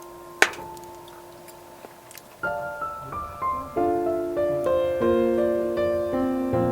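Soft background piano music: a few lingering notes, then a run of notes and chords that starts about two and a half seconds in and builds. A single sharp click sounds about half a second in.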